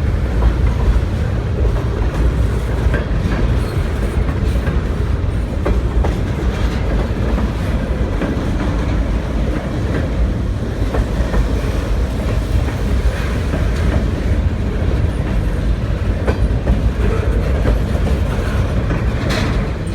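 HO scale model train running on the layout: a steady low rumble with faint clicking of wheels over the track.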